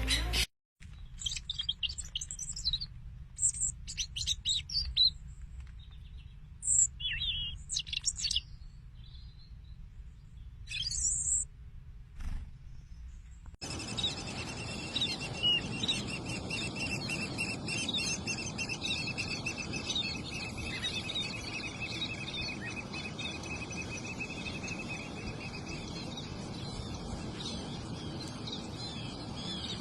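Small birds chirping in short, scattered high calls. About halfway through the sound cuts to a steady, high insect-like drone with bird calls over it.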